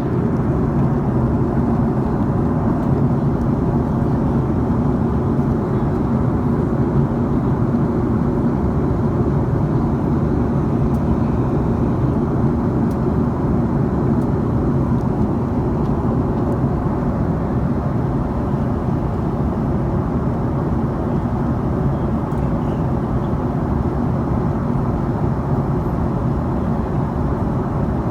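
Steady cabin noise inside an Airbus A310-304 airliner: the drone of its engines and rushing air, easing slightly a little over halfway through.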